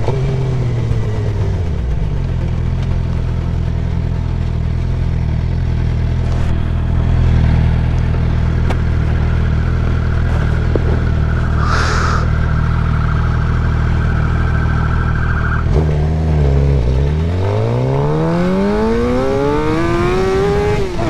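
A motor vehicle engine running hard at a steady pitch. About sixteen seconds in it eases off, then revs up again with a long rising pitch as it accelerates.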